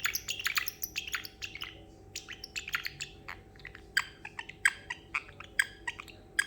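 Parrotlet making quick, irregular clicking chirps in imitation of running water, densest in the first two seconds and then more scattered.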